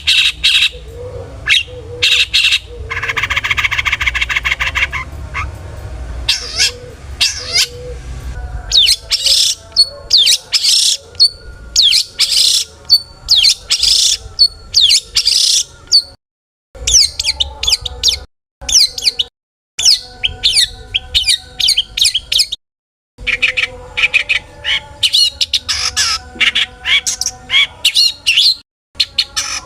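Long-tailed shrike singing a loud, varied song full of mimicked phrases: rapid sharp chirps and chatter, with a harsh buzzing rasp of about two seconds near the start. The song breaks off abruptly for a moment several times in the second half.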